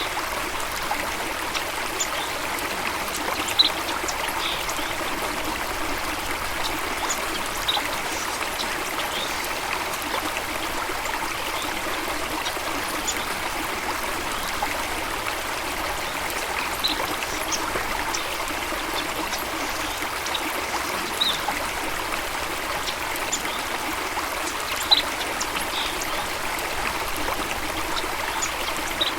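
Stream of water flowing and trickling steadily, with short high-pitched blips every few seconds.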